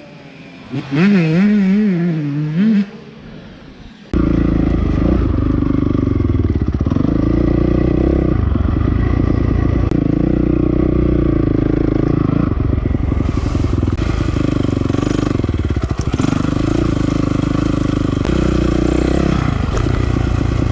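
Dirt bike engine, a Honda CRF450R's single-cylinder four-stroke, heard from the rider's helmet while riding a motocross track. It is quieter at first, then comes in suddenly loud about four seconds in, its pitch rising and falling over and over with throttle and gear changes.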